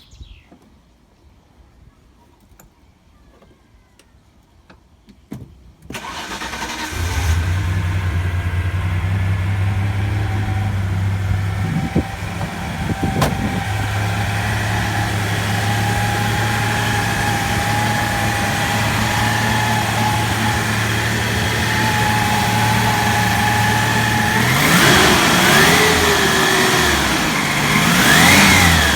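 Ford Capri 280 Brooklands' turbocharged 2.8 V6 (Turbo Technics conversion) starting for the first time: after a few seconds of quiet it cranks and catches about six seconds in, then settles into a steady idle with a whine above it. Near the end it is revved a few times, the revs rising and falling.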